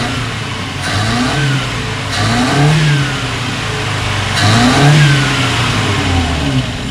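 1983 Hyundai Pony 2's four-cylinder engine running in the open engine bay and revved three times, each quick rise and fall in pitch settling back to idle. It pulls up cleanly, with an idle that is a little unsteady.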